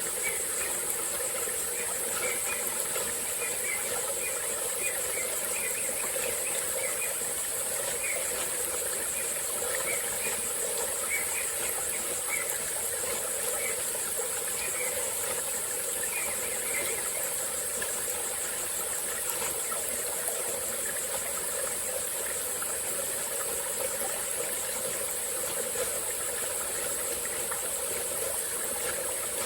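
Small tropical forest stream flowing steadily, under a continuous high-pitched insect drone. Short chirping calls repeat over it through the first half, then stop.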